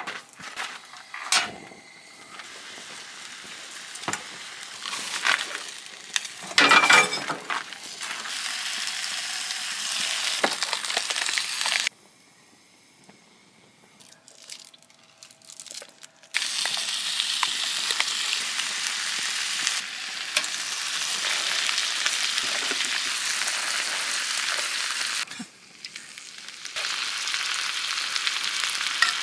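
Food frying in a pan, with a steady crackling sizzle and a few sharp clicks of utensils near the start. The sizzle cuts off for about four seconds midway, then resumes.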